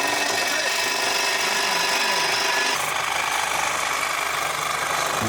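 Power tool running steadily as it cuts into the Ford Focus's exhaust pipe. Its note changes about two and a half seconds in.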